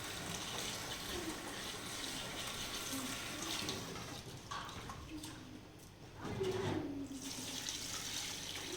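Water running and splashing steadily, easing off a little past the middle before picking up again.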